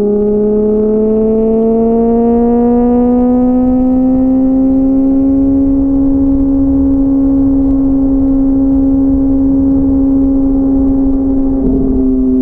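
Inline-four sport motorcycle engine pulling steadily at freeway speed. Its drone rises a little in pitch over the first few seconds, then holds steady, with wind rumble on the microphone. The engine note changes briefly near the end.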